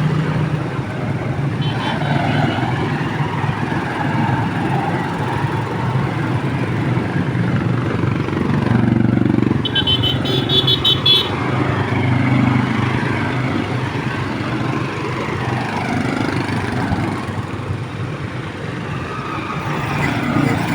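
Motorcycles running in a slow procession, engines steady throughout, with a horn beeping in a rapid string for about a second and a half near the middle.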